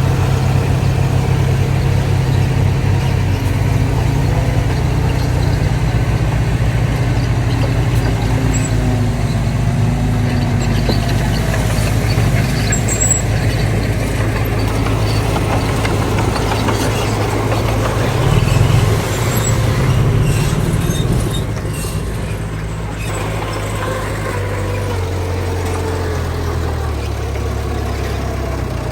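Diesel engines of heavy earthmoving machinery running, a steady low drone with pitch that rises and falls as the machines work. It swells about two-thirds of the way in, then settles to a lower, quieter note.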